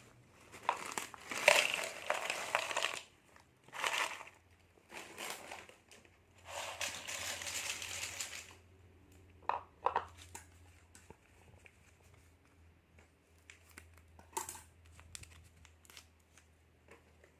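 Snack packets crinkling and rustling as they are handled and opened, in several bursts during the first half, then a few sharp clicks and quieter handling.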